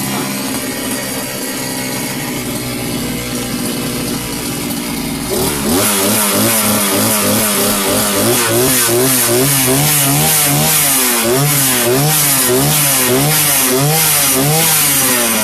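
Rebuilt two-stroke strimmer engine idling steadily as it warms up, then about five seconds in it is revved up and the throttle blipped rhythmically, the pitch rising and falling about one and a half times a second, before settling back to idle near the end.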